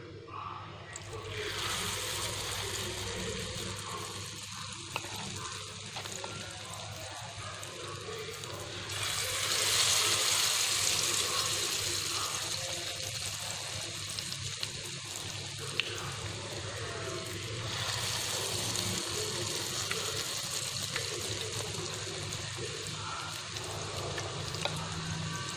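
Battered banana-blossom fritters sizzling as they deep-fry in hot oil. The sizzle starts about a second in, as the first spoonful of batter goes into the oil, and grows louder about nine seconds in.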